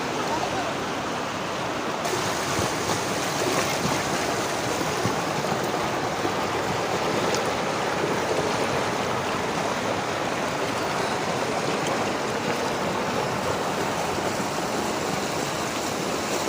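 Mountain river flowing over rocks: a steady, even rush of water. The hiss of the water gets a little brighter about two seconds in.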